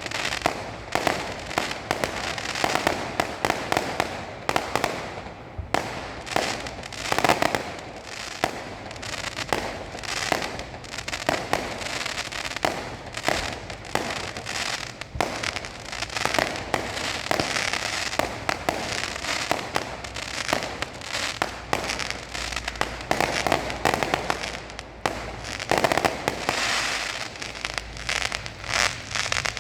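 A fireworks display going off continuously: a dense, irregular run of bangs and crackling pops from shells bursting overhead, many each second.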